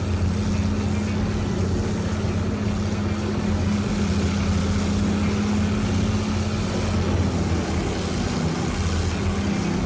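Diamond Z DZT8000TK tracked horizontal wood grinder running steadily under load: a constant low engine drone with a steady rushing noise over it.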